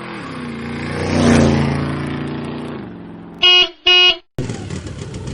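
A motor vehicle's engine passes by, swelling and then fading. Then a horn gives two short beeps about three and a half seconds in.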